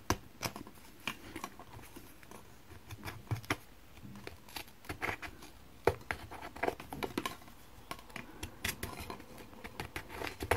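A plastic surprise egg and its wrapping being handled and opened by hand: scattered irregular clicks, taps and crinkles.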